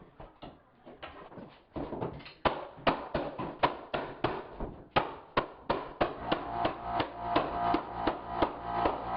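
Repeated knocks on hardwood floorboards, about two to three blows a second, growing louder and more regular about two seconds in, as boards are tapped tight during a nail-down installation. Background music plays under them.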